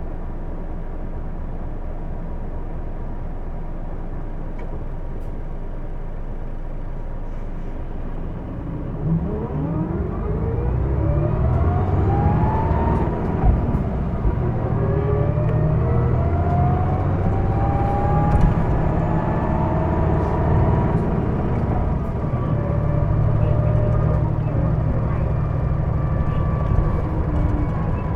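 Interior of a Hino Blue Ribbon II diesel city bus, running steadily and low for about nine seconds, then pulling away under power. Whining tones rise in pitch with the engine and level off, over a heavier rumble. This bus is known for an abnormal drivetrain noise.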